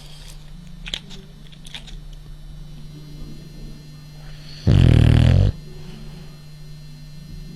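French bulldog snoring: one loud, rough snore about five seconds in, lasting under a second.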